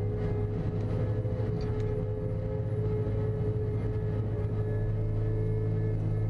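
Tracked forestry mulcher with a Cat C9 diesel engine running steadily: a constant low drone with a steady higher whine over it.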